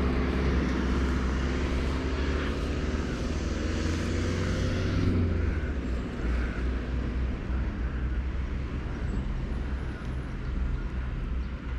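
Engine drone of a passing vehicle over a steady low rumble, strongest for the first five seconds or so and then fading away.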